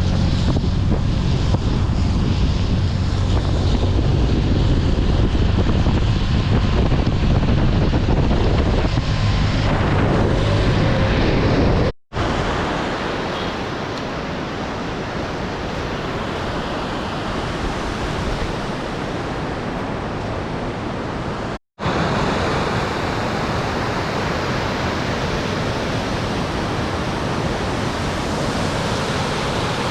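Steady rushing noise with heavy wind rumble on the microphone for about the first twelve seconds. After two abrupt cuts it becomes an even, hissing rush with less low rumble.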